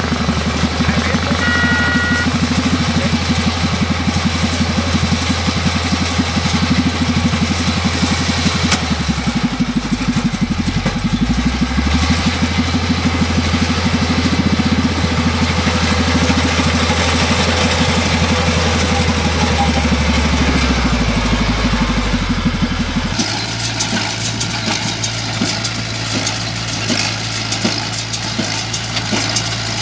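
Engine of a tractor and hay baler running steadily under work. About 23 seconds in, the sound changes abruptly to a different engine note.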